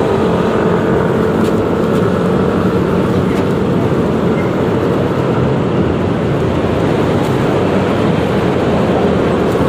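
Steady running noise of a Yamaha XMAX 300 scooter ridden in traffic: its single-cylinder engine droning with road and wind noise, even in level with no sudden events.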